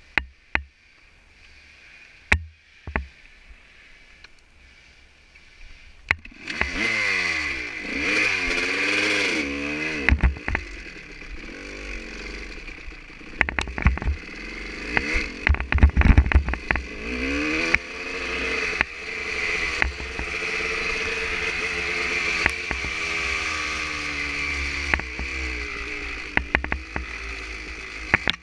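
A few sharp knocks over quiet, then about six seconds in a dirt bike's engine comes in and keeps running, revving up and falling back again and again, with clatter and knocks from the rough trail.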